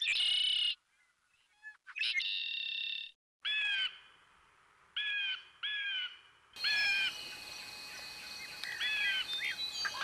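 Wild birds calling: a short, clear, arched call repeats about six times among other chirps. The sound comes in short pieces with silent gaps, then from about six and a half seconds in runs on over a steady forest background.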